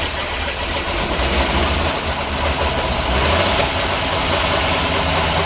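Chevrolet 235 inline-six in a 1946 Chevy two-ton cab-over truck idling steadily on all six cylinders, just after a cylinder-head rebuild that freed two stuck exhaust valves.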